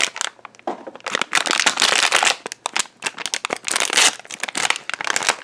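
A glued-shut cardboard blind box being pried open by hand, its cardboard and packaging crackling and crinkling in irregular bursts. There is a brief lull about half a second in and another near three seconds.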